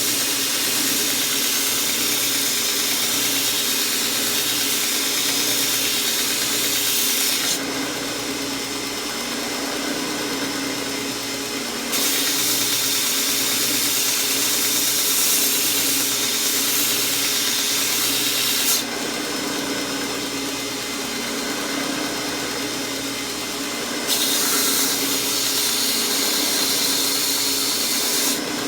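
Homemade 2x72-inch belt grinder running steadily with an Orange Blaze belt, grinding a steel lawn mower blade. The high grinding hiss comes in three spells. In between, the blade is lifted off and only the motor and the free-running belt are heard.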